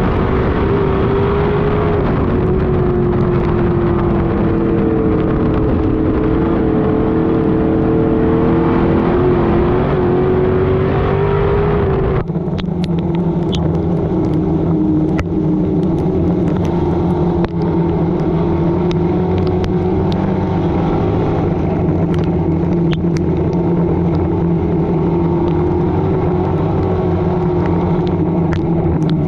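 Street stock race car engine running hard at racing speed, its pitch wavering slightly with the throttle. About twelve seconds in the sound changes abruptly to a lower, steadier note, with sharp ticks and clicks scattered over it.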